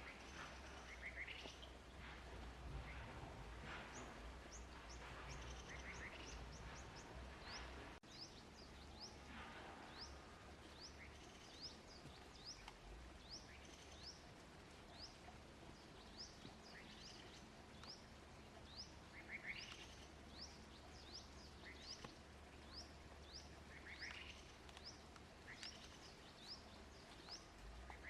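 Faint bird chirping: many short, high chirps falling in pitch, scattered throughout, over a faint low hum.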